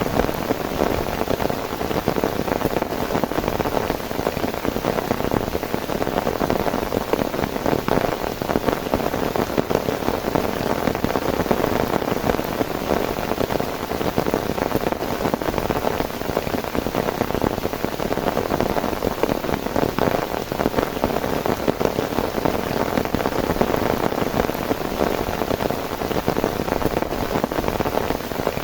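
Heavy rain falling steadily, a dense, even patter of many drops that does not let up.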